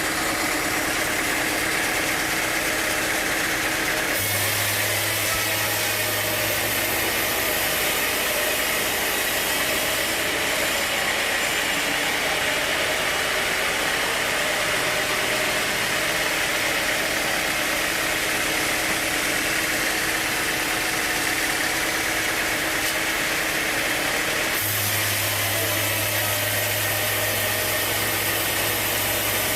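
Sawmill machinery running with a steady mechanical drone. Its tone shifts suddenly about four seconds in and again near the end.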